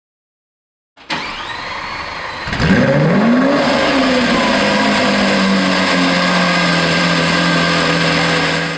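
Porsche 911 GT3 RS's flat-six starting: a short crank, then the engine catches, its revs flare up and drop back, and it settles into a steady idle.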